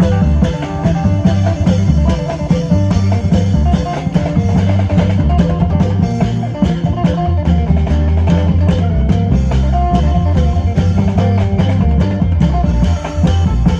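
Amplified Thai klong yao band music through a PA sound system: a plucked electric phin melody over drums and a heavy, steady bass line.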